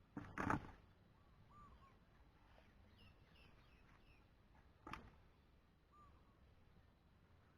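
Faint birds calling now and then in a quiet rural outdoor setting, with a short loud knock or rustle about half a second in and a single sharp click near five seconds.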